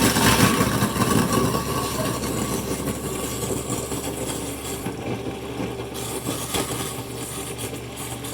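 Sink garbage disposal motor switched on and running with a steady hum and a churning rattle. It is loudest right after starting and settles slightly as it runs.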